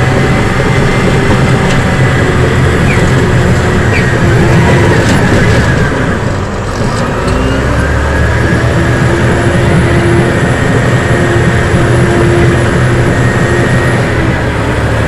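Caterpillar D6 bulldozer at work: its diesel engine runs loudly and steadily. It dips briefly about halfway through, then settles to a slightly different note.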